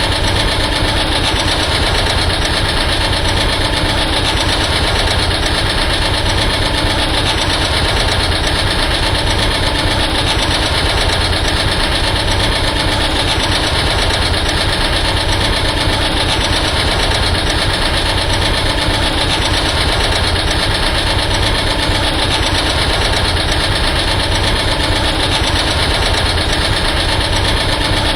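An engine idling steadily, with an even, rapid low pulse and no change in speed.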